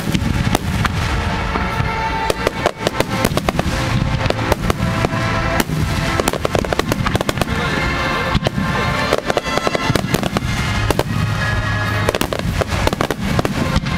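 Aerial fireworks bursting in rapid succession, many sharp bangs and crackles, heard close up over music playing steadily.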